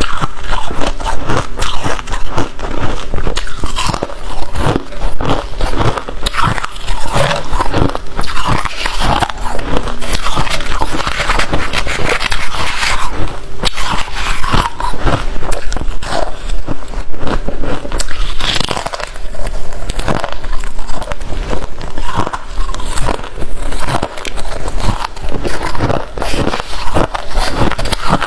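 A person biting and chewing crunchy freezer frost close to the microphone, a dense, unbroken run of loud crunches.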